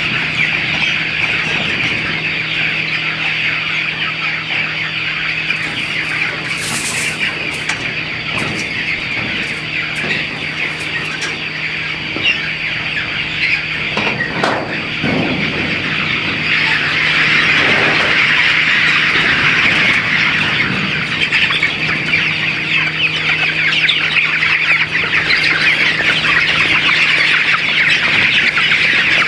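A large flock of chickens calling together in a dense, continuous chorus of overlapping clucks and chirps, growing louder about halfway through. A steady low hum runs underneath.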